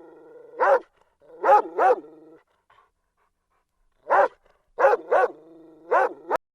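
Dog barking: sharp, pitched barks in two runs, about three in the first couple of seconds and four more after a pause of about two seconds. The last bark cuts off abruptly.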